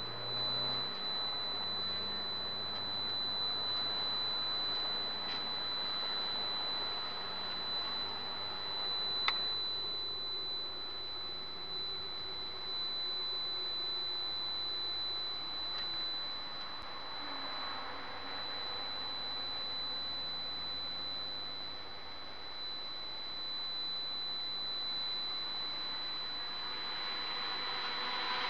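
Subaru Impreza S204's turbocharged flat-four engine running at low revs with road noise while rolling slowly at pit-lane speed, heard from a dashcam inside the cabin. A steady high-pitched whine from the camera runs over it, and a single sharp click comes about nine seconds in.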